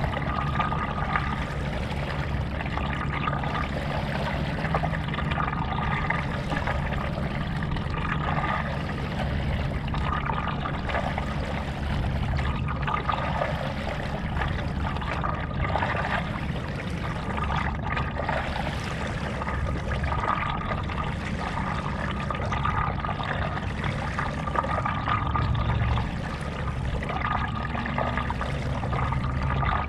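Stand-up paddleboard paddle strokes: the blade dips and pulls through lake water with splashing and trickling, about one stroke every two seconds, over a steady low rumble.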